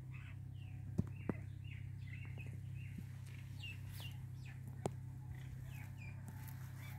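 Small birds chirping in a quick series of short notes, over a steady low hum, with a few sharp clicks.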